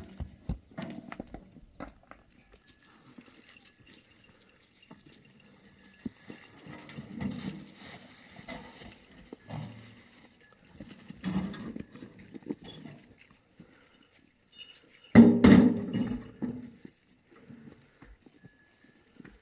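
Sheep and goats bleating, with three main calls, the loudest about three-quarters of the way through, among scattered light knocks.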